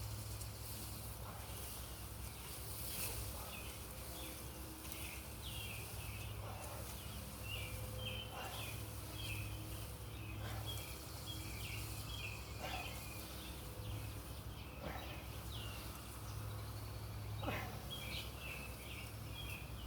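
Outdoor ambience: many short, high chirping calls from birds or insects repeat throughout over a steady low hum, with a few faint cracks or snaps every few seconds.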